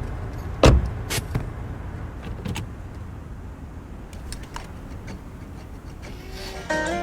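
Car sounds: a steady low rumble with a loud thump less than a second in, followed by a few sharper clicks. Plucked-string music (guitar) comes in near the end.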